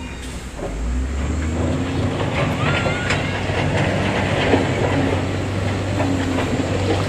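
Heavy construction machine's diesel engine running steadily under a dense clanking and rattling of metal and stone, with a few short high squeals about two to three seconds in.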